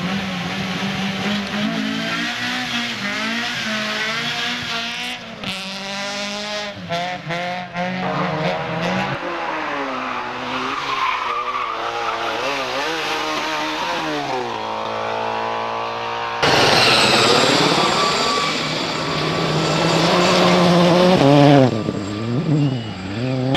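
Race car engines revving hard, the note rising and falling again and again through gear changes. Near the middle it turns suddenly louder.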